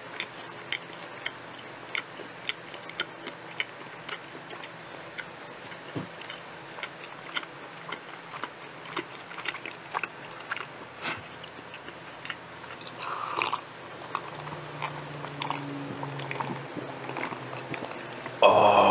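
A person chewing a mouthful of chicken, olive, onion and mushroom pizza close to the microphone, with many small wet clicks and smacks of the mouth. Near the end comes a short loud vocal sound from the eater.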